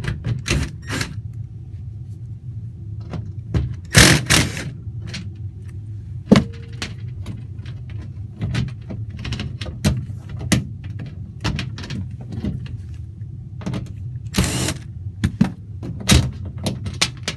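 Clicks, knocks and rattles of an air handler's sheet-metal access door being unscrewed and lifted off, with a few short, harsher bursts among them, over a steady low hum.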